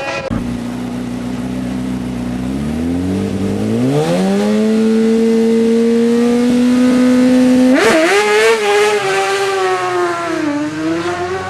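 Racing car engine on a hillclimb run, its revs rising over about two seconds and then holding a steady high note. Near eight seconds in the sound jumps sharply, then the revs waver up and down and dip.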